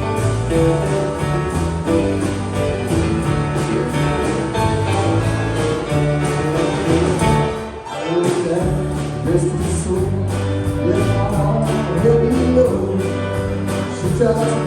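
A band playing a song: guitar and drums with a singing voice, keeping a steady beat, with a brief break in the music about halfway through.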